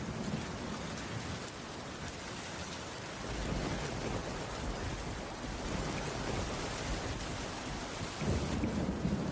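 Steady rain falling, with a low rumble that swells about three seconds in and again near the end.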